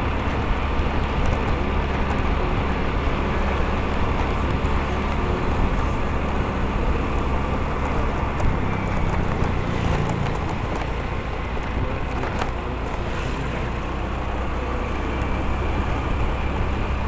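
Motorcycle running along the road, with steady engine, wind and road noise; the engine note shifts about halfway through.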